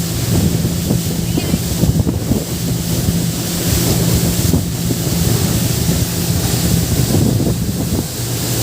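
A boat's engine running steadily under way, with wind buffeting the microphone and water rushing past.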